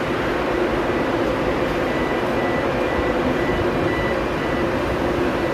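A drydock flooding: a steady rush of inflowing water mixed with a machinery hum. A faint high beep repeats throughout.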